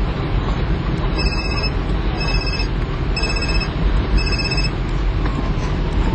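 An electronic beep repeating about once a second over a steady low rumble; near the end a faint tone slowly falls in pitch.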